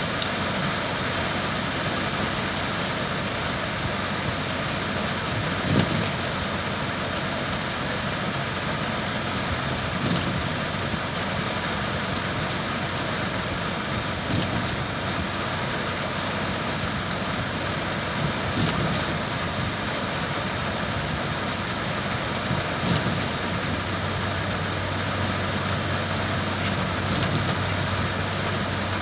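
Heavy, steady tropical-storm rain pouring down, with a few brief louder swells now and then.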